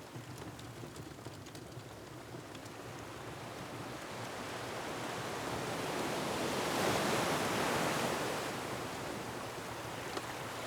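Ocean surf rushing against a rocky shore, swelling to a crash about two-thirds of the way through and then easing, over a light crackle of a wood fire.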